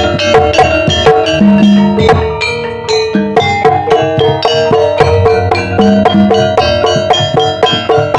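A Javanese gending played by a gamelan-style ensemble for ebeg: struck pitched metal or bamboo keys ring out in a steady, busy pattern over kendang drum strokes.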